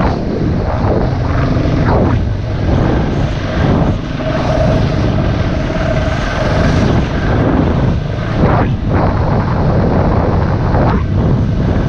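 Single-cylinder dirt bike engine running under way on a trail, its pitch and level rising and falling with the throttle every couple of seconds, mixed with wind rushing over the microphone.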